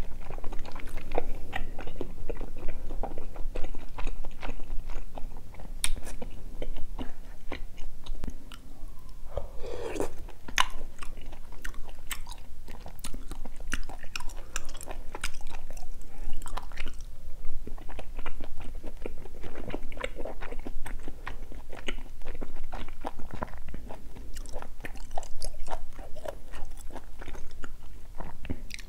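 Close-miked chewing and biting as a person eats pieces of spicy gopdori-tang, chicken and beef large-intestine stew, with many small irregular clicking mouth noises and a slightly louder one about ten seconds in.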